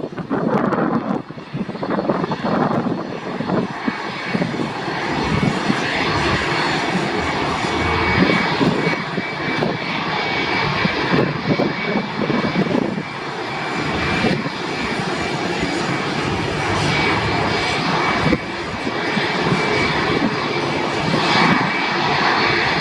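Airliner engines running loud and steady at an airport, with a thin steady whine above the rumble.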